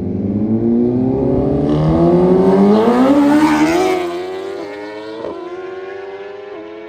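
A vehicle engine accelerating hard past, its pitch climbing steadily for about three and a half seconds. It is loudest near the middle, then the pitch levels off and the sound fades as it moves away.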